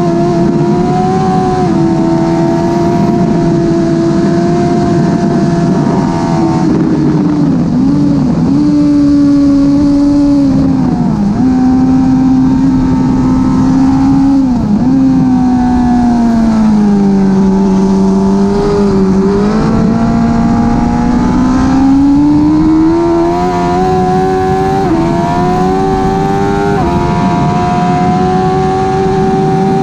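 Suzuki GSX-R 1000 K5's inline-four engine with a slip-on exhaust, heard from onboard at speed. It holds high revs, dips briefly a few times, sinks lower through the middle, then climbs back up in steps as the bike accelerates.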